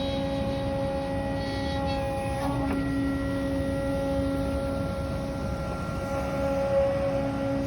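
Heavy earthmoving machinery running steadily: a diesel engine's drone with a steady whine held over it.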